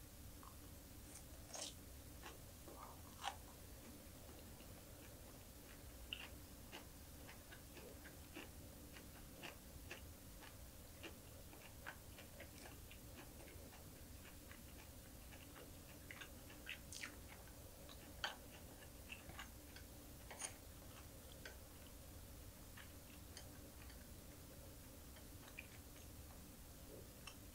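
Close-up chewing of a green chili pepper topped with small dried anchovies: faint, irregular crunchy clicks and soft mouth smacks, with a few sharper crunches.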